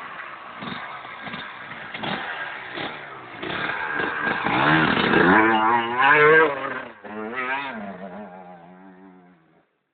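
Enduro motorcycle engine revving hard, its pitch climbing and dropping through the gears, loudest about five to six seconds in, then fading away and stopping shortly before the end.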